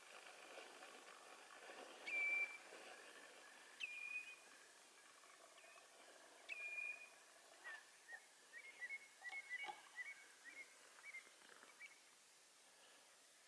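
A bird calling: three clear whistled notes about two seconds apart, each a quick upward flick into a short held note, then a run of short, quick chirps.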